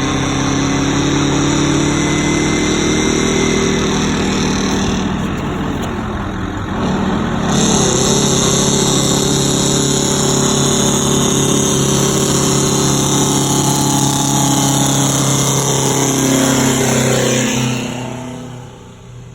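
Brockway truck's engine working hard up a hill under a heavy load. Its pitch sags and picks up again about seven seconds in, it gets louder, then fades away near the end.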